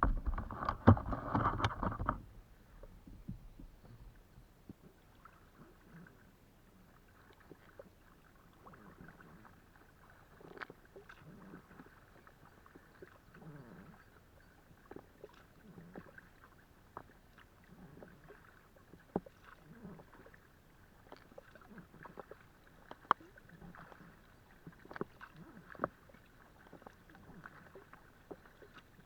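Kayak paddling: the paddle blades dip into the water in small, uneven splashes and drips, with scattered light clicks. A louder rush of splashing comes in the first two seconds.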